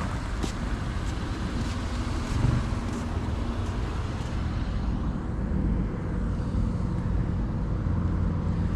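Car engine running steadily under a low road-noise rumble, with a few light ticks in the first two seconds.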